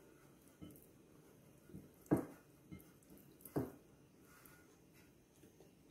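Faint, soft squishing sounds of a fried fish in sambal being pulled apart by hand and eaten with rice, with two louder wet squishes about two seconds in and again at three and a half seconds.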